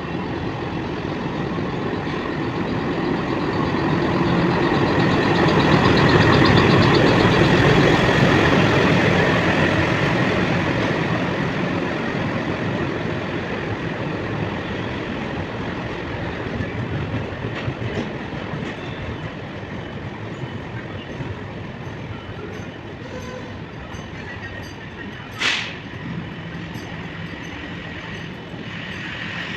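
Train running, a steady rumble that swells to its loudest about seven seconds in and then slowly eases off, with one brief sharp high sound near the end.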